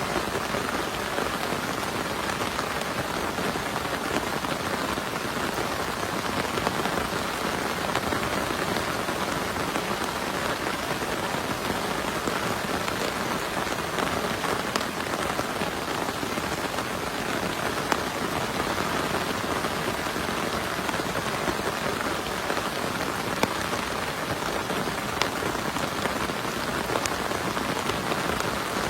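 Heavy rain falling steadily, with scattered sharp ticks of single drops landing close by.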